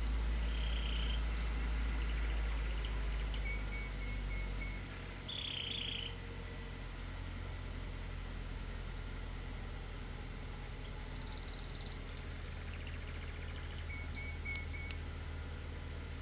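2012 Toyota Avanza engine idling steadily just after a cold start, a low hum whose note changes about five seconds in. Birds chirp over it in short quick series, a few seconds in and again near the end.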